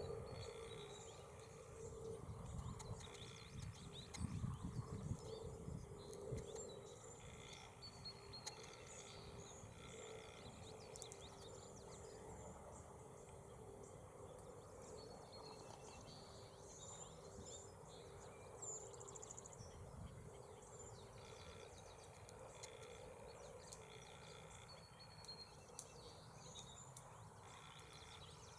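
Faint outdoor ambience with scattered short, high bird chirps over a low steady hum.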